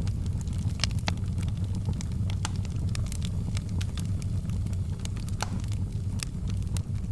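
Wood fire burning with a steady low rumble and frequent sharp crackles and pops at irregular intervals.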